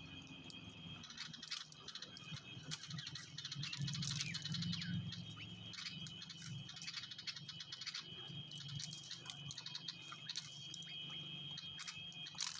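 Small songbirds chirping in quick, repeated short calls, with a few sweeping whistles about two to three seconds in, over a steady high-pitched whine.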